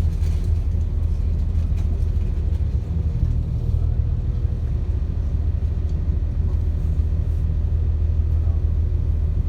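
Inside a moving passenger train: steady low rumble of the train running along the track, with a faint steady hum.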